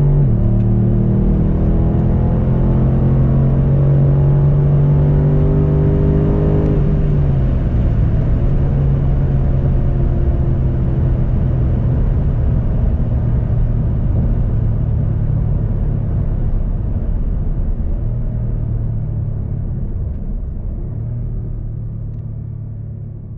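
BMW M850i's 4.4-litre twin-turbo V8 running under load, its note climbing slowly. About seven seconds in the pitch falls away, and the engine runs on at a lower, steadier note that fades out near the end.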